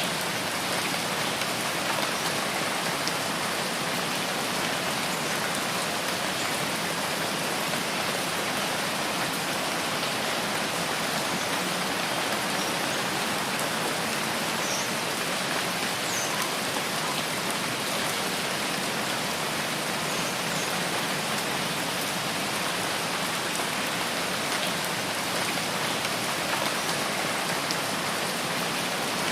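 Steady rain falling in a rain forest: an even, unbroken hiss of rain with no pauses. A few faint, short high chirps come through about halfway.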